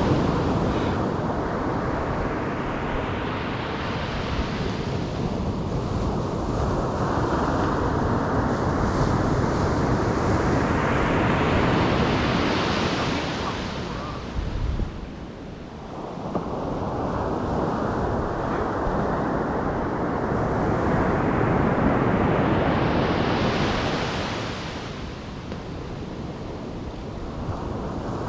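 Ocean surf: waves breaking and washing up the beach in a steady rush, swelling three times, roughly ten seconds apart.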